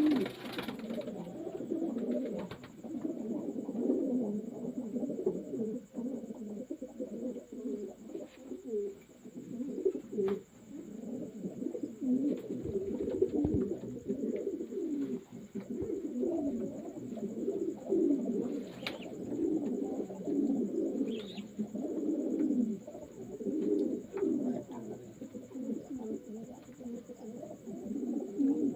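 Many pigeons cooing together, their low rolling coos overlapping without a break, with a few faint clicks.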